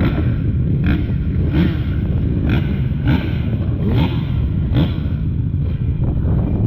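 Motocross dirt bike engine revving hard in short rising surges about once a second, with sharp clattering knocks and heavy wind rush over the action-camera microphone.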